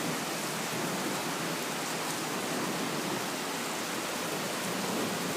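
Heavy rain pouring down steadily during a thunderstorm, a dense, even hiss with no thunder claps.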